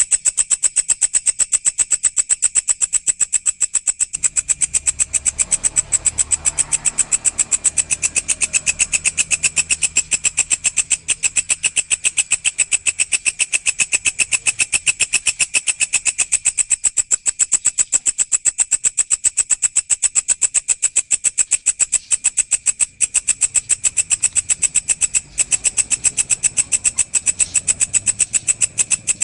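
Walang insect stridulating: a continuous, rapid, evenly pulsed high buzz with two ringing pitches, one shrill and one lower, going on without a break.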